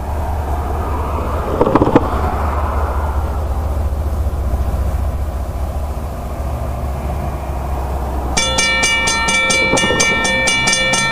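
Diesel freight locomotives approaching with a steady low rumble, and a thump about two seconds in. About eight seconds in, a grade-crossing bell starts ringing rapidly, about five strokes a second.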